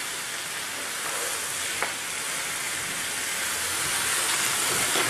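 Sliced vegetables sizzling in hot oil in a nonstick wok as they are stir-fried with a wooden spatula: a steady frying hiss with one light tap about two seconds in.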